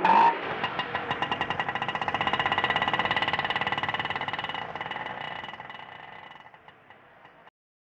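Auto rickshaw engine running with a fast, even chugging pulse. It grows a little louder, then fades away as if the rickshaw is moving off, and cuts off suddenly near the end.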